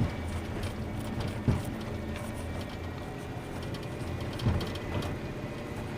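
Rubbish truck's diesel engine running steadily with a low hum, and two short knocks, one about a second and a half in and one near the end.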